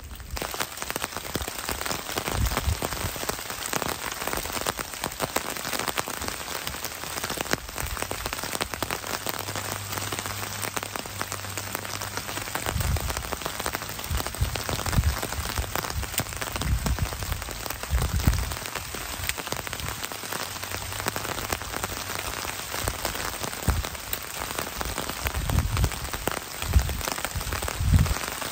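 Steady rain falling on the leaf litter of the forest floor, an even patter throughout, with scattered low thumps.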